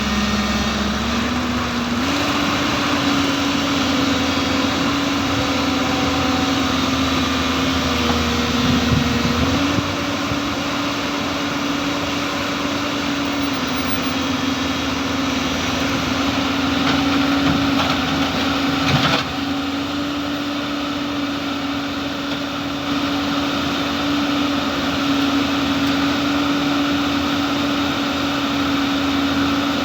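JCB loader's engine running steadily, its speed stepping up and down several times before holding even. One sharp knock comes about two-thirds of the way through.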